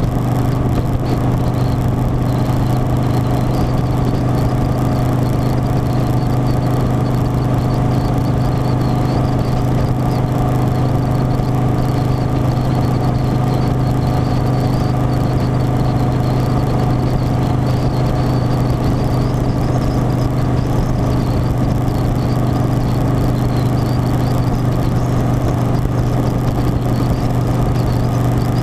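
Harley-Davidson Softail Standard's V-twin engine running at a steady cruise, a constant low drone with no change in pitch or level.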